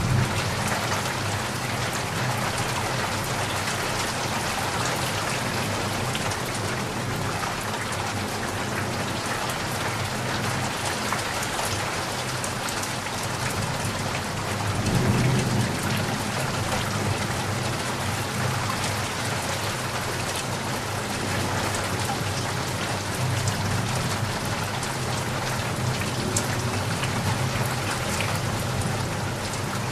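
Steady rain falling and pattering on surfaces, an even continuous hiss, with a low rumble that swells briefly about halfway through.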